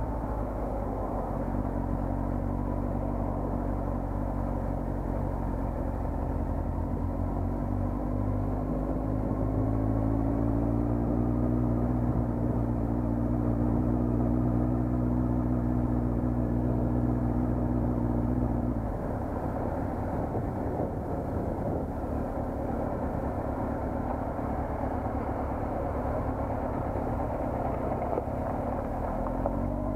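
A vehicle engine runs steadily while moving, its note rising a little partway through. Around two-thirds of the way in the steady engine tone drops away, leaving a rougher rumble of road and wind noise.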